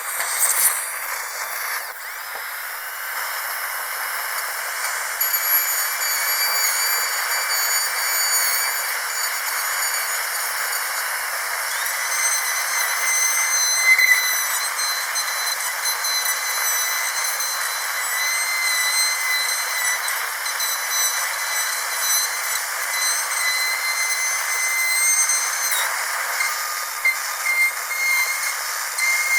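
Dental drill running with a steady high-pitched whine over a hiss.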